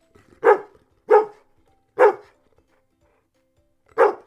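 A dog barking: four short, loud barks, three about a second apart and the fourth near the end.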